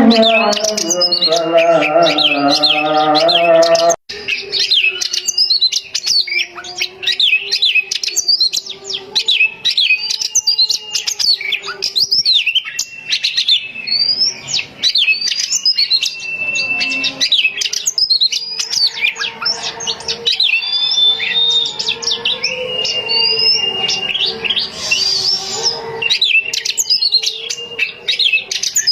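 Oriental magpie-robin (kacer) singing continuously, a rapid run of varied whistles, chirps and trills. For the first four seconds a lower, wavering pitched tone sounds beneath the song and then cuts off abruptly.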